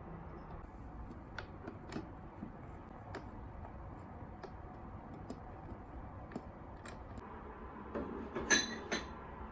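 Small objects being handled: scattered light taps and clicks, then a brief clatter near the end with one ringing clink.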